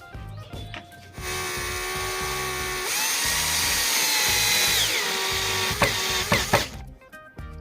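A power tool's electric motor running for about five and a half seconds, its whine stepping up in pitch partway through and dropping back. A few sharp clicks follow near the end.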